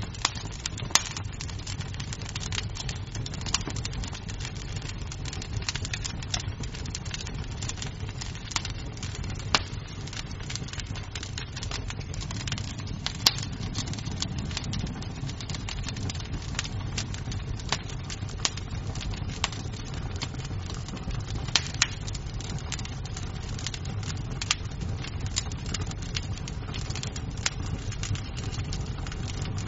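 Wood fire crackling in a fireplace: a steady low rumble of the flames with frequent scattered sharp pops and snaps of burning wood.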